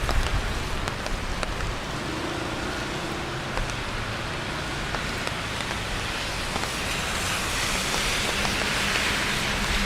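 Steady rain with city traffic on wet streets: an even hiss with scattered faint drop ticks, building a little near the end.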